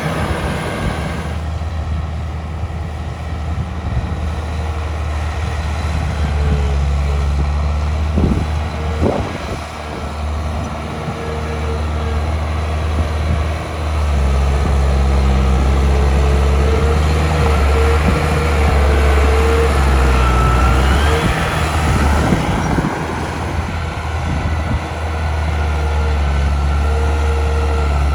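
Heavy earthmoving machinery's diesel engine running steadily at work, a deep continuous drone. A couple of sharp metallic knocks come about eight and nine seconds in, a thin squeal comes and goes, and a short rising whine is heard about two thirds of the way through.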